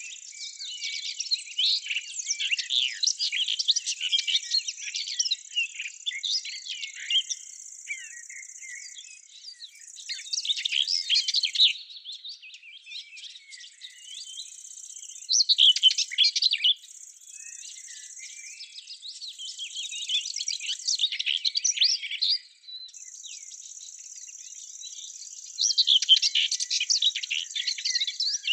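Songbirds chirping and twittering in quick overlapping clusters, over a steady high buzz that stops and starts several times.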